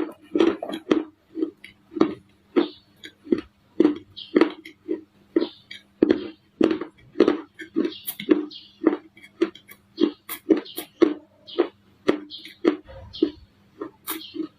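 Baked clay being chewed close to the microphone: short crunchy bites and chews in quick succession, about two to three a second.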